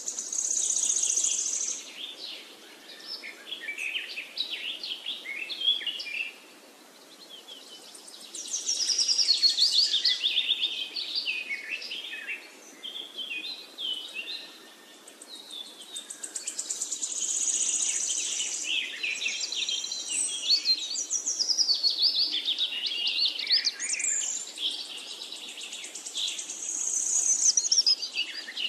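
Birdsong: several birds chirping and trilling at once, swelling louder and fading back every few seconds.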